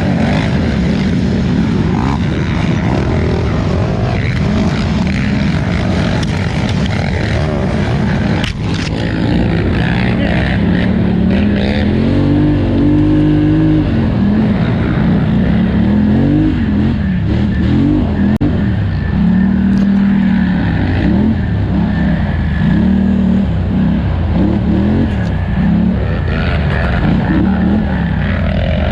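Polaris Scrambler 1000 XP ATV's twin-cylinder engine racing hard, its pitch rising and falling again and again as the throttle is worked. There is a sharp knock about eight seconds in.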